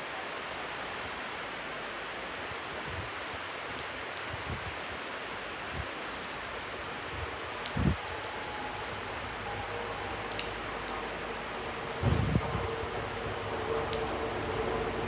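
Steady rain falling, with a few dull bumps on the microphone. From about halfway, the diesel power car of an approaching InterCity 125 High Speed Train rises faintly under the rain and grows louder near the end.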